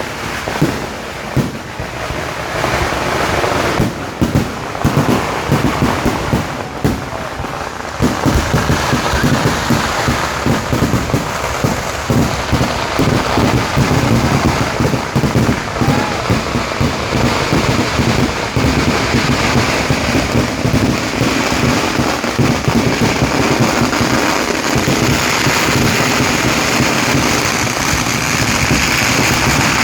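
A barrage of firecrackers going off in rapid succession. It starts as separate loud bangs and, about a quarter of the way in, packs into a dense, near-continuous crackling rattle that keeps building.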